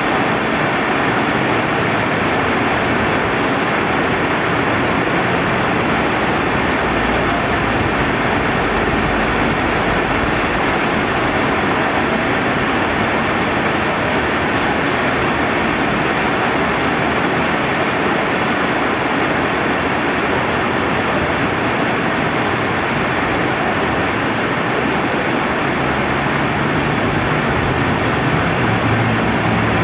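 Steady rain falling beside a flowing river, an even hiss of water that does not change.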